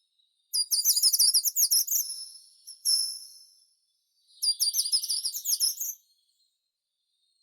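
A songbird singing in high-pitched phrases. A quick run of rapid notes comes about half a second in, a single falling note follows near three seconds, and a second quick phrase starts about four and a half seconds in, with pauses between.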